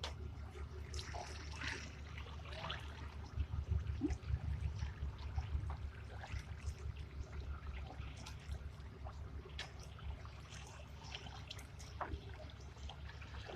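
Water trickling and splashing, with scattered small knocks, over a low, steady rumble.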